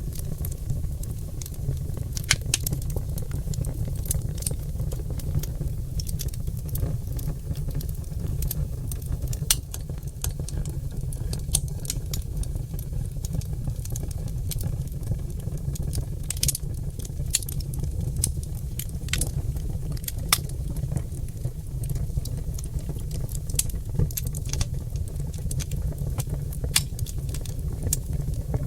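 Oak logs burning in a fireplace, crackling and popping: irregular sharp pops over a steady low rumble.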